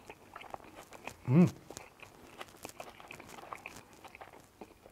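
A man chewing a mouthful of burger, with many small, soft crunches. About a second and a half in, he gives a short hummed "mm" through his full mouth.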